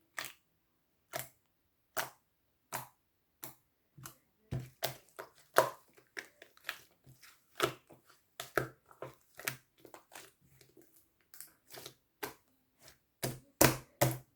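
A series of short, sharp clicks and taps, spaced about a second apart at first, then coming faster and more irregularly from about four seconds in.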